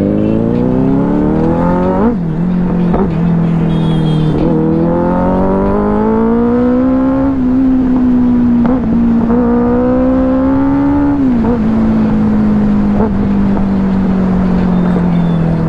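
Benelli 600i inline-four motorcycle engine accelerating hard through the gears. Its pitch climbs with a quick drop at each upshift, about every two to three seconds, then settles into a steady, slowly falling note near the end.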